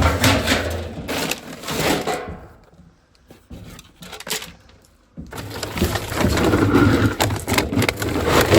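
Dry cat food kibble rattling and crunching as it is poured out, in two bouts with a quieter pause of about three seconds between them.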